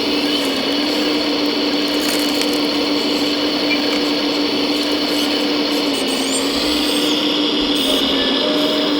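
Small electric motor of a 1:14 scale RC construction machine running with a steady whine, its pitch shifting slightly a few times.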